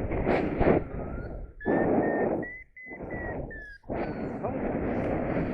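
Wind buffeting the microphone in gusts, with the rush dropping out briefly twice around the middle. A faint thin high tone sounds for a couple of seconds in the middle.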